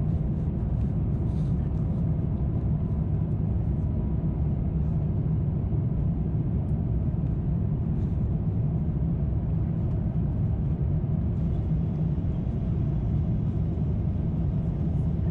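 Steady low cabin rumble of an Airbus A350-900 in flight, engine and airflow noise heard from a window seat inside the cabin.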